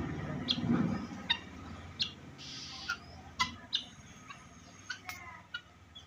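Bird calls: about half a dozen short, separate chirps spread over a few seconds, over a faint low background.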